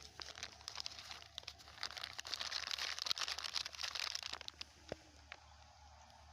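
Plastic litter crinkling and crackling as it is handled and pulled from the soil, a dense run of small crackles that is busiest in the middle.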